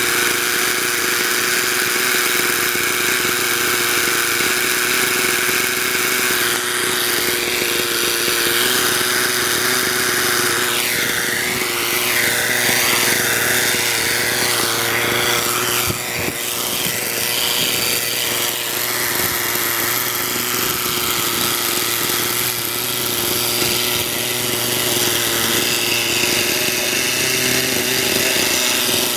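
Hirobo engine-powered RC helicopter running in flight, a steady high-pitched engine and rotor sound. The pitch wavers up and down for a few seconds about eleven seconds in.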